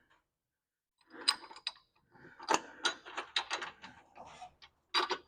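A run of irregular metallic clicks and taps from tools and parts being handled during brake work, starting about a second in.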